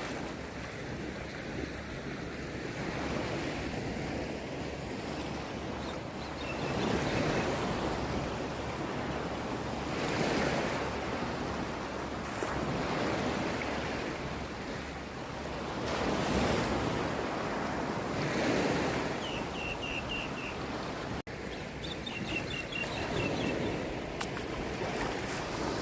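Sea waves washing in, swelling loud every few seconds, with wind buffeting the microphone.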